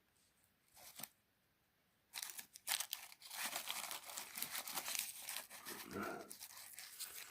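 Plastic packaging being handled, rustling and crinkling unevenly from about two seconds in, after a single faint sound about a second in.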